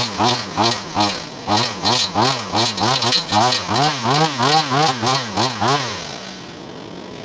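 Battery-powered brush cutter (Wild Badger multitool fitted with its brush blade), its electric motor whining up and down in quick trigger bursts, about three a second, stopping about six seconds in.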